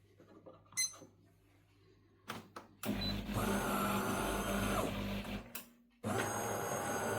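De'Longhi Dinamica Plus bean-to-cup coffee machine running: after a few light clicks, a steady mechanical whir with a high whine and a low hum starts about three seconds in, cuts off just before six seconds, and starts again a moment later.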